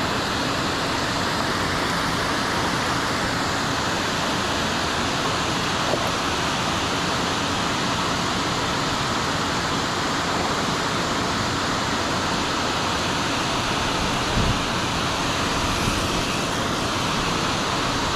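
Steady rush of fast-flowing creek water below a dam: an even, unbroken noise at the same level throughout, with a single brief low bump late on.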